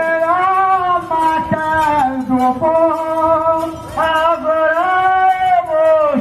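A man singing a drawn-out call of long held notes that slide up and down between pitches, the mestre's sung chamada that opens a maracatu rural.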